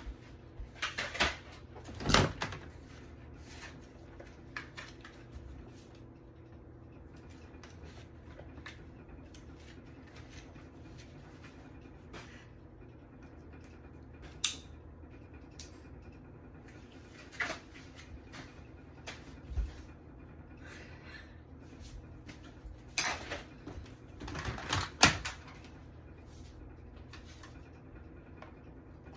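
Scattered clicks and knocks over a faint steady hum: a few sharp ones about two seconds in, single ones here and there, and a cluster of several near the end.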